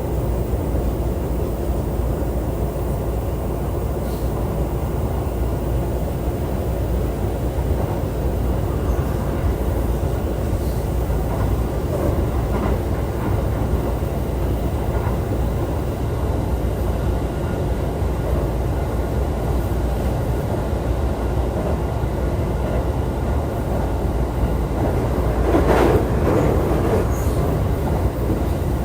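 Running noise of a JR East E531 series electric train heard from inside the carriage: a steady rumble of wheels on rail, with a brief louder rush about 26 seconds in.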